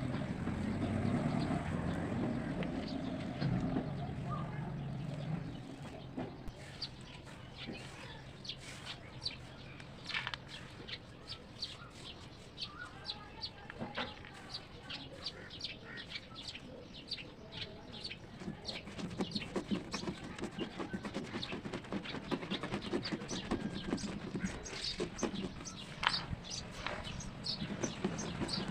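Crisp crunching: a fast, irregular run of sharp crackles and snaps, growing denser after the first few seconds.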